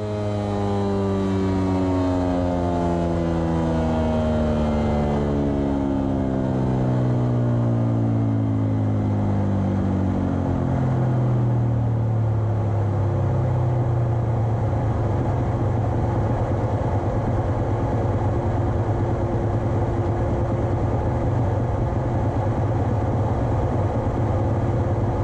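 2022 Suzuki RM-Z250's single-cylinder four-stroke engine on a chassis dyno, just after a pull. Its revs fall slowly for about thirteen seconds, then it settles to a steady idle.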